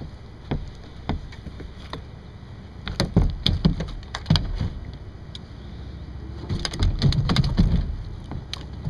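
Clattering knocks and low thumps on a kayak while a just-hooked largemouth bass is handled. They come in two busy stretches, about three seconds in and again about seven seconds in.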